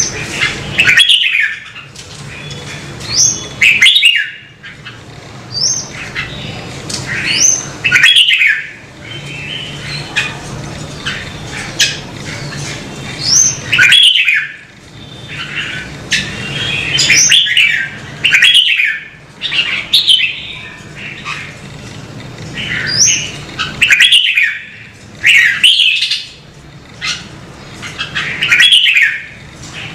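Red-whiskered bulbuls singing: short, loud whistled phrases with quick slurred notes, repeated every two to four seconds, over a faint steady low hum.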